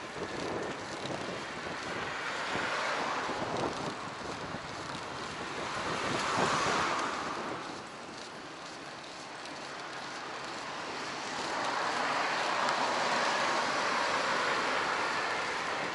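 Wind rushing over an action camera's microphone on a moving bicycle, swelling about six seconds in and again from about eleven seconds in.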